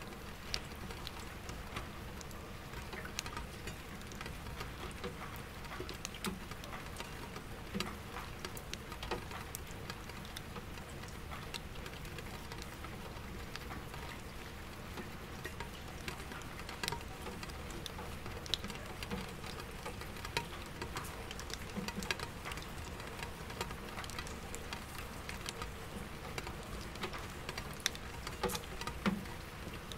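Soft rain falling on window glass and an empty bucket, with scattered drops tapping irregularly over a low, steady city hum of distant traffic.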